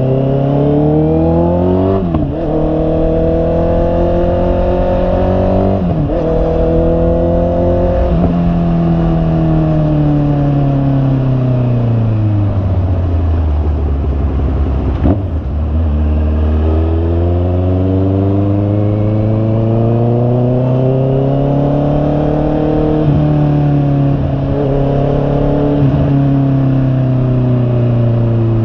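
Honda CB650R's inline-four engine accelerating through the gears, its pitch climbing and dropping at three upshifts in the first eight seconds. It then winds down as the bike slows, holds low for a few seconds, and pulls away again with two more upshifts near the end.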